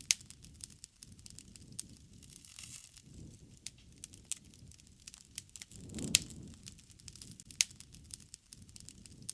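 Campfire burning: a steady bed of small crackles, with a few louder sharp pops and a soft rumble of flame that swells and fades.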